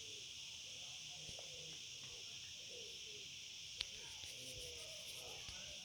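Steady, high-pitched insect chorus, with a single sharp click just under four seconds in.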